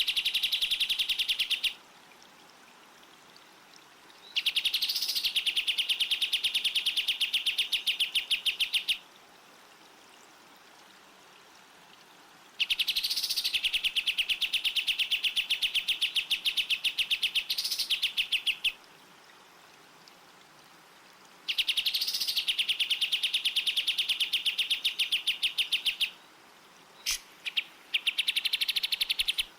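White-rumped shama (murai batu) song on a training recording: four long phrases of a very fast trill, each opening with a rising note, separated by short pauses, then a few short notes near the end.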